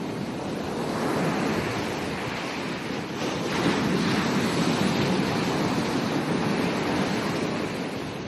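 Ocean waves breaking and washing up a beach, one surge about a second in and a bigger one about three seconds in, easing off near the end.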